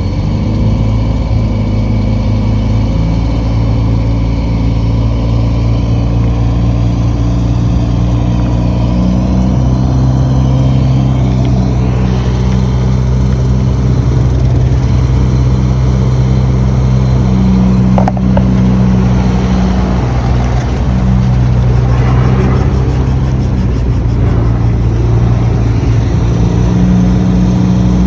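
Heavy diesel engine of earthmoving equipment running loud and steady under work, its pitch shifting up and down a little a few times.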